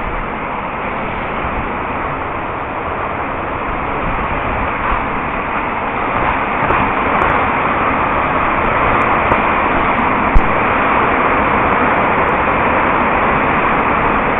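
Steady rain noise that grows heavier about halfway through, with one sharp knock about ten seconds in.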